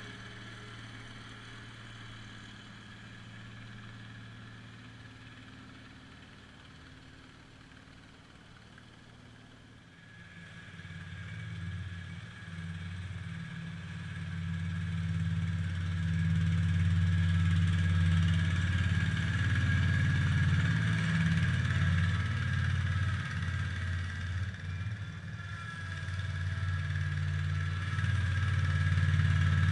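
International Harvester Cub Cadet 147 garden tractor engine running steadily, quieter at first, then much louder from about ten seconds in and staying loud with a few brief dips.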